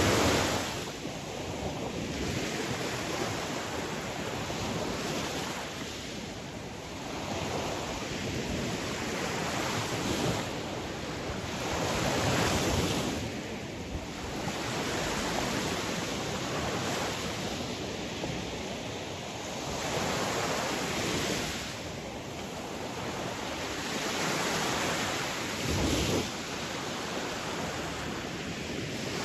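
Sea waves breaking and washing ashore, the surf swelling and fading every few seconds.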